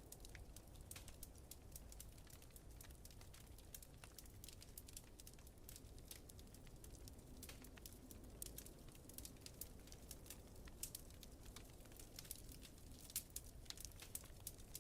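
Wood fire crackling with many small, irregular pops, the sharpest about 13 seconds in, over a faint low rumble of wind.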